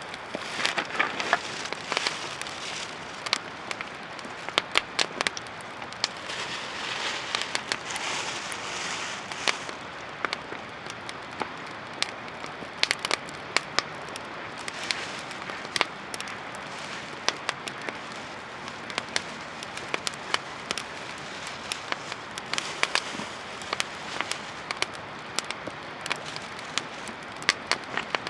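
Wood campfire of dried driftwood burning, crackling with many sharp pops over a steady hiss.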